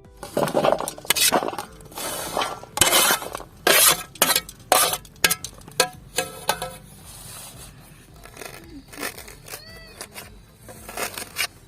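Cooking vessels and utensils clattering and clinking in a quick run of sharp knocks, some with a short ring, over background music.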